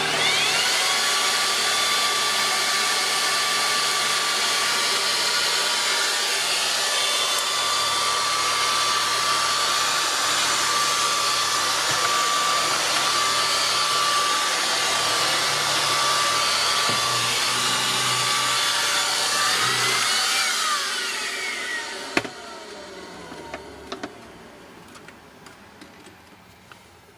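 Sharp EC-AR2SX-N cordless stick vacuum cleaner running steadily with a high motor whine. Its pitch rises briefly, then it switches off and winds down with a falling whine, followed by a few light clicks.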